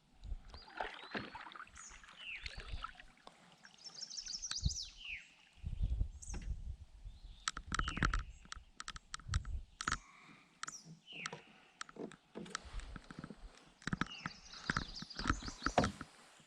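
Canoe paddling: paddle strokes with sharp wooden knocks of the paddle against the canoe, in quick clusters about six seconds in and again near the end. Short, falling, chirp-like calls recur throughout.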